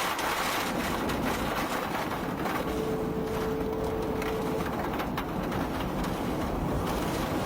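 Tornado-force wind and heavy rain buffeting a parked police squad car: a dense, steady rush of noise with scattered knocks. A steady tone sounds for about two seconds near the middle.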